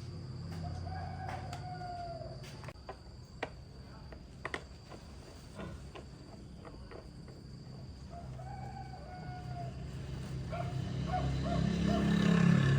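A rooster crowing twice, once near the start and again about eight seconds in, with a few sharp clicks between the crows and a steady high insect drone underneath. A low rumble swells and becomes the loudest sound near the end.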